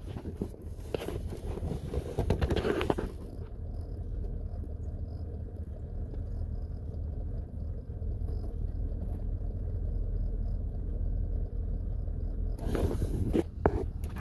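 Chevrolet Suburban 2500's V8 idling, heard from inside the cab at the dash, with a faint repeating high tick over the low steady rumble. The sound is the little grinding noise behind the speedometer at idle that the owner cannot identify. Rustling handling noise covers the start and returns near the end.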